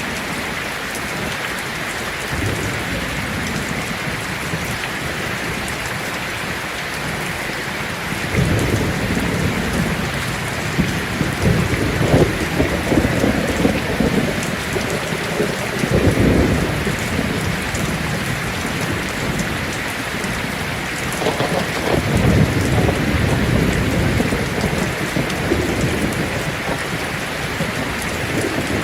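Heavy rain falling on a tin roof as a steady hiss, with rolling thunder rumbling twice: from about eight seconds in, swelling for several seconds, and again a little past twenty seconds in.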